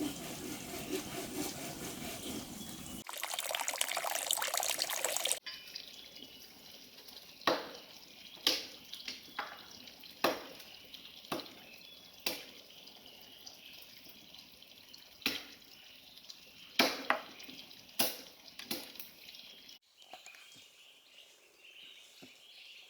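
Water running or pouring for about five seconds, then a dozen scattered sharp taps a second or so apart, like drops or light knocks.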